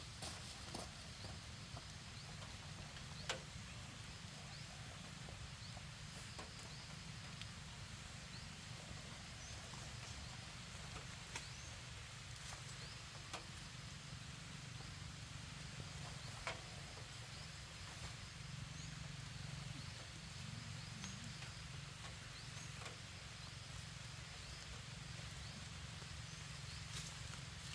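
Faint outdoor ambience: a steady low rumble with a handful of scattered sharp clicks and faint short high chirps.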